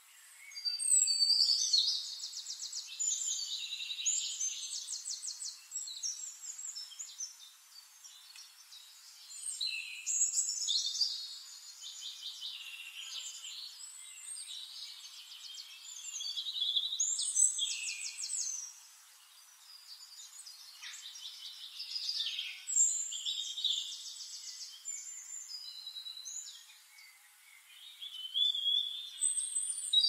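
Songbirds singing: bursts of high, fast trilling song, each a couple of seconds long, coming about every six seconds.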